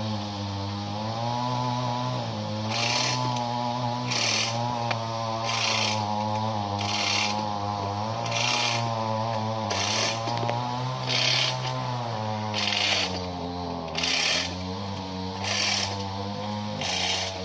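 An engine running steadily, its pitch wavering slightly up and down, with a regular hiss about every second and a half.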